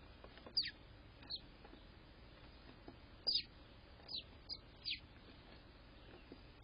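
A small bird chirping: six short, high calls, each sliding quickly down in pitch, in an irregular run.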